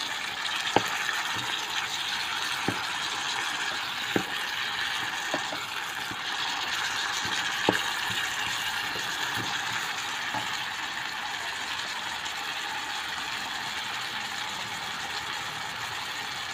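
Texturized vegetable protein frying with a steady sizzle in an electric cooking pot while a plastic spoon stirs it, with a few sharp clacks of the spoon against the pot.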